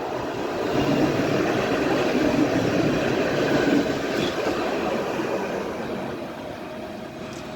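Alstom Citadis tram running on its rails, the rolling noise swelling over the first couple of seconds and then fading away.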